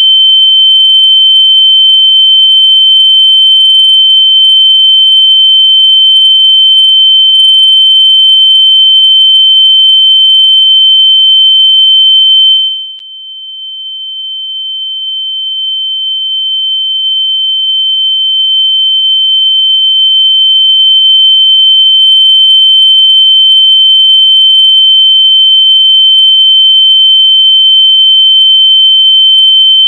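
A loud, steady, high-pitched electronic tone, a locator sound meant to be played through lost AirPods so they can be heard and found. About halfway through it suddenly drops in loudness, then slowly swells back to full level.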